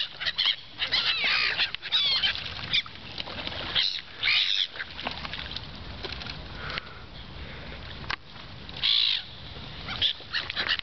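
A flock of gulls calling over and over, with loud squawks about a second, two, four and nine seconds in over a steady chatter of shorter calls.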